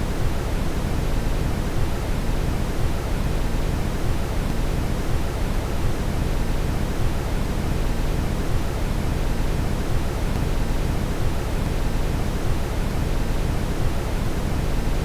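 Steady brown noise: an even, deep rushing hiss, heaviest in the low end and unchanging in level.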